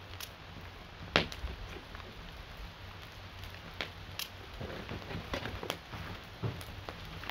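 Rain falling at a crackling campfire: irregular sharp ticks and pops, the loudest about a second in, over a faint steady hiss.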